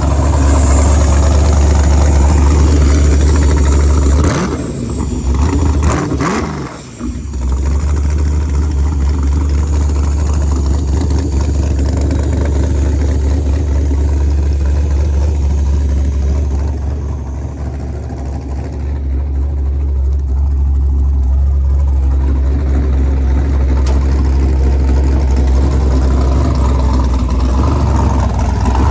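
El Camino's 6-liter LS V8 running, mostly at a steady idle. Its note wavers and dips briefly about five to seven seconds in.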